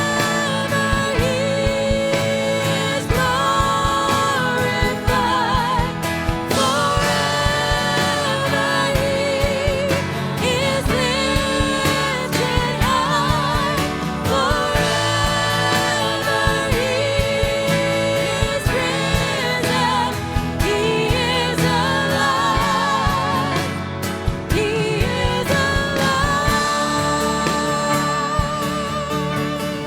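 Worship band playing with singing: sustained, wavering vocal lines over held keyboard and guitar chords, in a slow Christian worship song.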